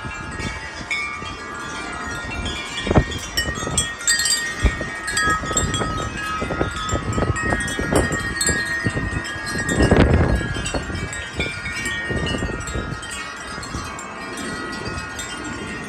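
Wind chimes ringing continuously in strong, gusty wind. Gusts buffet the microphone, the strongest about ten seconds in.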